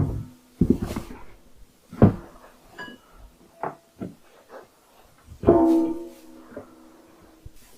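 Metal clanks and knocks from air compressor parts being handled, about five in all. One knock about five and a half seconds in leaves a metallic ring that fades over about a second.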